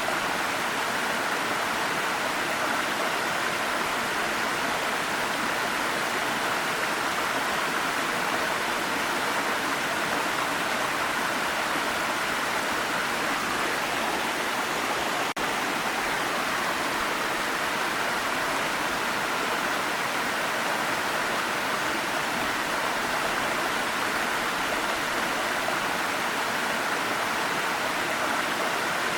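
Waterfall: a steady, unbroken rush of falling water, an even hiss strongest in the upper-middle range.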